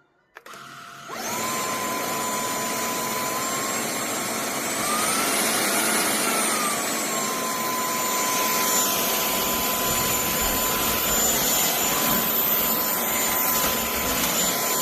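Cordless stick vacuum cleaner motor switched on in the first second and running with a steady whir and high whine. The pitch rises briefly in the middle, then settles back.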